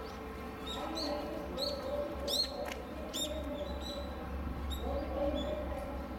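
Small birds chirping: short, high chirps every half second or so, the loudest about two and a half seconds in, over a low steady rumble.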